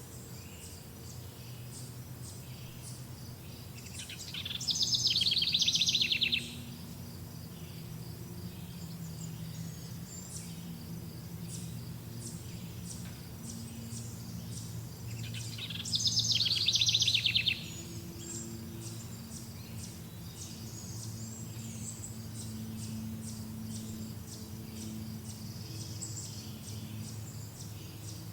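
Songbirds chirping, with many short high calls throughout. Two loud, rapid trilled songs come about five seconds in and again about sixteen seconds in. A steady low hum runs underneath.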